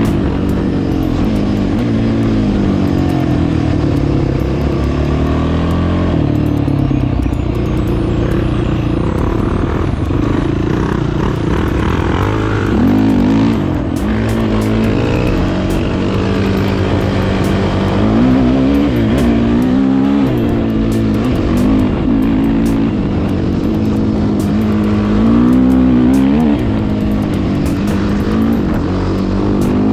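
A 450 cc single-cylinder four-stroke off-road engine, ridden hard, revving up and down over and over, its pitch rising and falling every second or two.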